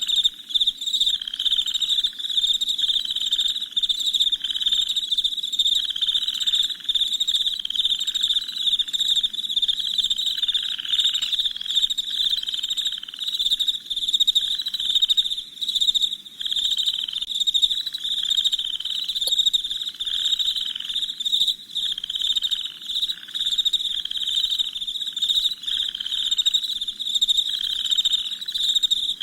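Night chorus of crickets chirping steadily in dense, overlapping pulses, with a second, lower pulsing call repeating more than once a second beneath them.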